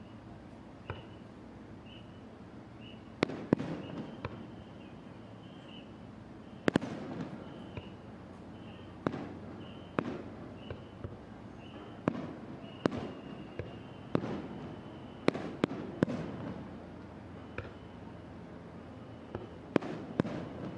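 Aerial fireworks shells bursting over open water: about twenty sharp bangs at irregular intervals, some in quick pairs, each trailing off in a rolling rumble.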